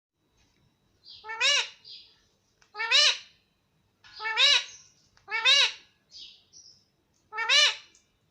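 Indian ringneck parrot calling: five loud calls, each rising then falling in pitch, with short, fainter, high chirps between them.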